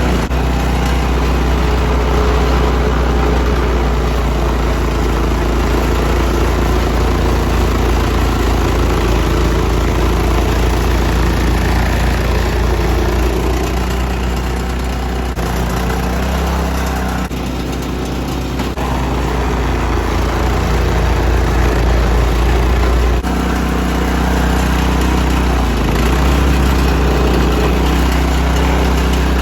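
Gas snowblower engine running steadily. Its note and level dip a little past the middle, then pick up again.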